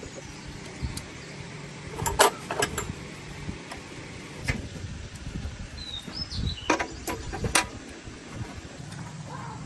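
A handful of sharp knocks and clicks spaced irregularly over several seconds, over a low steady background hum, with a brief high squeak just after the middle.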